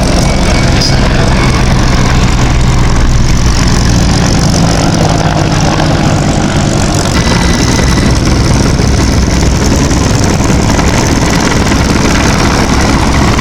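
Mil Mi-171Sh helicopter running loud and steady, its twin turboshaft engines and rotor making a continuous low drone.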